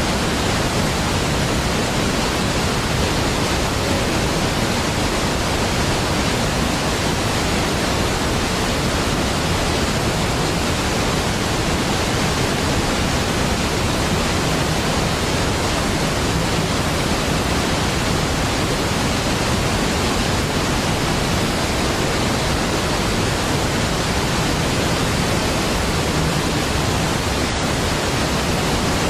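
Niagara Falls, a large waterfall, giving a steady, unbroken rush of falling water, even and constant throughout.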